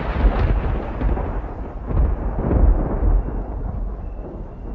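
Thunder rumbling heavily, swelling again about two and three seconds in, then slowly dying away.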